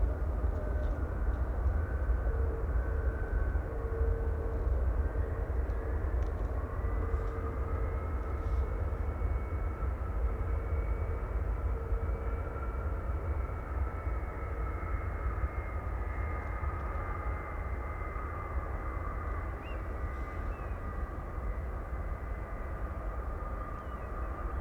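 Airbus A330-300 jet engines running: a steady deep rumble with high whining tones that rise slightly and then slowly fall.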